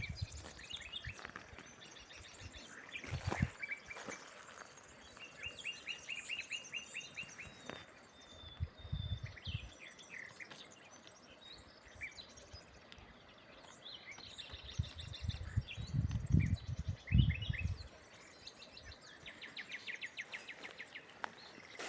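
Several wild songbirds singing and chirping, with quick runs of repeated short notes throughout. Low rumbles come and go, loudest about two-thirds of the way through.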